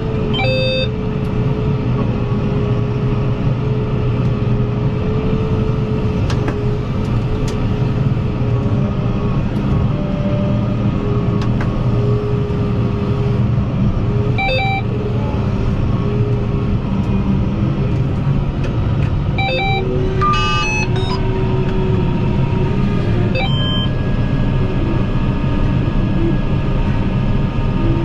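Tractor engine running steadily at an even speed, with a few short high-pitched sounds breaking in now and then.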